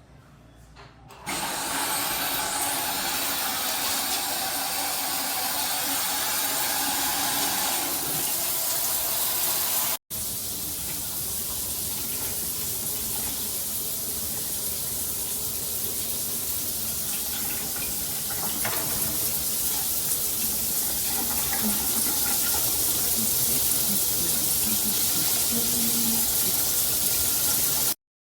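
Water spraying steadily from a Gabrylly shower system's heads. It starts about a second in, cuts out for an instant near the middle, runs on and stops abruptly near the end.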